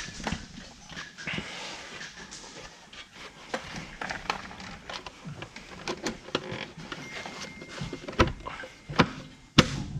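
Scattered clicks and handling noises, then a few sharp knocks in the last two seconds.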